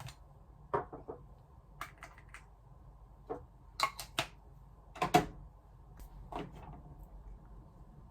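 A scattering of light clicks and knocks from small objects being handled, about a dozen over several seconds, the loudest a pair about five seconds in.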